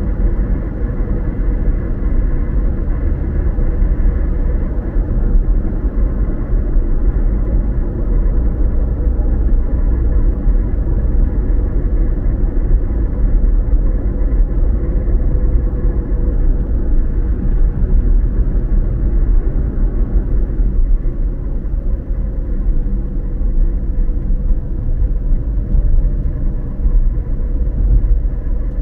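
Steady low rumble of a car driving, road and engine noise heard from inside the cabin; the higher part of the noise eases a little about twenty seconds in.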